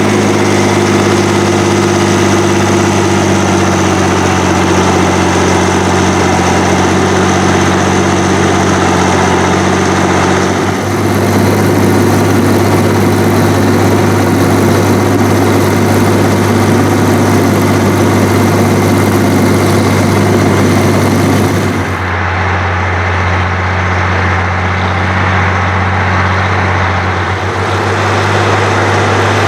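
Heavy diesel engines of a New Holland G240 tractor and a tracked Fiat-Allis 14C working steadily under load, deep plowing. The engine note changes abruptly twice, about a third and three quarters of the way through.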